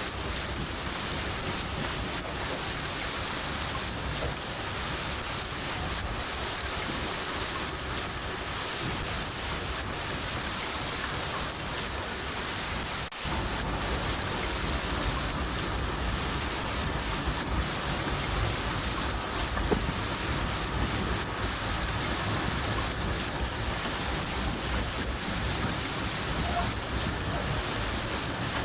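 A cricket chirping steadily, about three high, even chirps a second, over a continuous hiss of rain. About 13 seconds in there is a brief break, after which the chirping is a little louder.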